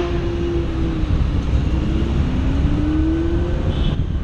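Supercar engine and exhaust running with a deep rumble. Its note dips, then climbs steadily over a second or so as the revs rise.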